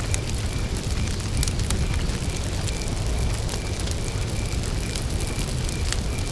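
Campfire burning: wood crackling with scattered sharp pops over a low rumble of the flames. A cricket chirps in a steady repeating pulse behind it.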